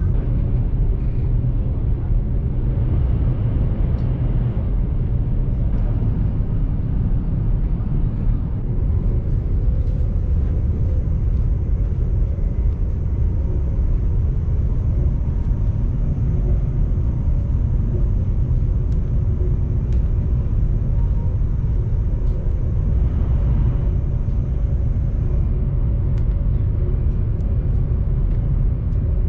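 Steady low rumble of a Chinese high-speed train at speed, heard inside the passenger cabin, with a few faint clicks.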